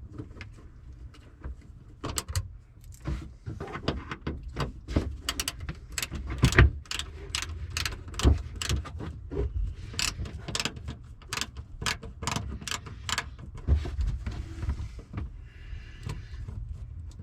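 Irregular metallic clicks, taps and rattles of hand tools and screws as the Phillips-head screws are undone from a car's fuel pump access panel.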